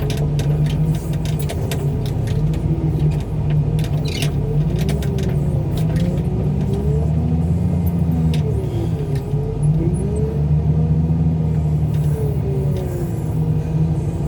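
Heavy engine running under load, its pitch rising and falling as the revs change, with a low steady rumble and a few rattles and clicks in the first few seconds.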